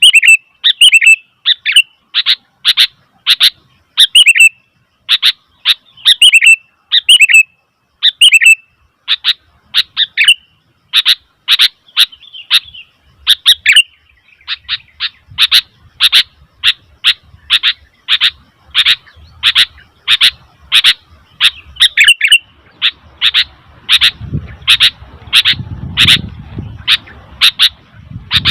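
Sooty-headed bulbul calling loudly: a long run of short, sharp chirps at about two a second, some with a warbled twist in the first half, the later ones clipped and evenly repeated.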